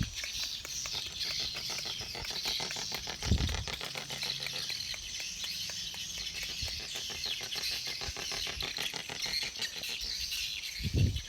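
Steady high-pitched chirping of many small birds in the background, with a brief low thump about three seconds in and another near the end.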